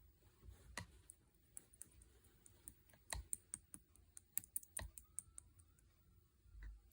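Faint, irregular light clicks and taps, sharper and more frequent in the middle few seconds, like keys or a small hard object being tapped.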